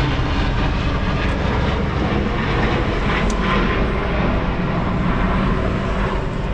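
Fixed-wing aircraft engines running, a steady loud rushing noise.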